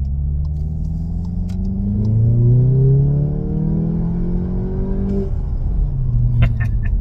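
2019 VW Jetta GLI's turbocharged 2.0-litre EA888 four-cylinder, fitted with an aftermarket intake, turbo inlet and turbo muffler delete, accelerating under throttle, heard inside the cabin. The engine note rises steadily in pitch for about three and a half seconds, falls abruptly about five seconds in, and then runs on at a lower pitch, with a few sharp clicks near the end.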